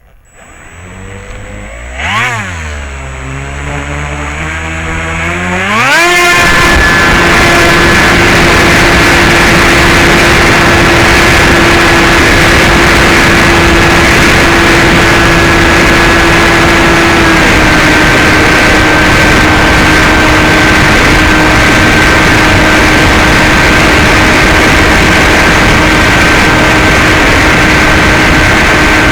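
Electric brushless outrunner motor (NTM 35-30A 1400kv) and 9x6 propeller of a Bixler 2 FPV plane spinning up over about six seconds, with a brief rise and fall near two seconds, then running steadily at high throttle. The steady whine sits over a loud rush of wind on the onboard camera's microphone and drops slightly in pitch about two-thirds of the way through.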